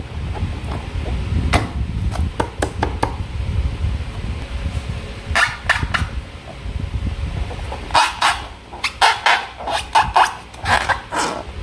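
Hands working slime and rubber balloons: a run of sharp clicks and short squelching, squeaky bursts, grouped about halfway through and again in the last few seconds.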